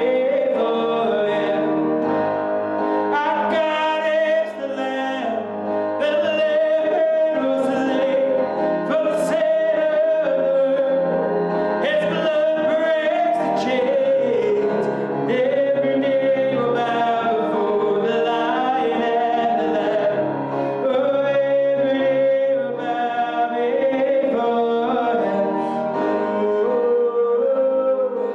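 Worship song: a voice singing a melody over band accompaniment.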